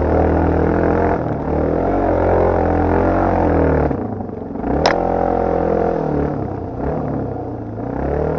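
Off-road motorcycle engine under varying throttle, its pitch rising and falling again and again as it revs and eases off. A single sharp knock comes about five seconds in.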